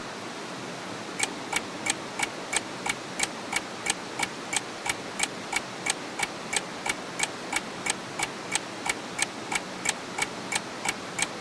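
Regular sharp clicking, about three clicks a second, starting about a second in, over a steady hiss.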